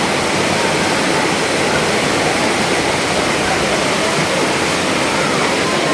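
Heavy monsoon downpour with rainwater rushing: a loud, steady rush of water.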